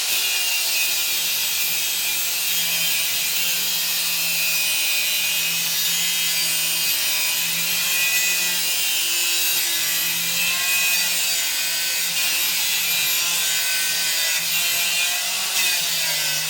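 Angle grinder with a cut-off disc cutting through steel angle: a steady, loud grinding hiss with a whine that wavers slightly in pitch.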